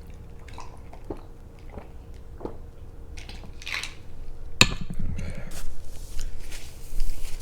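A person gulping down juice close to the microphone: mouth and swallowing sounds that grow louder and busier in the second half, with a sharp knock about halfway through.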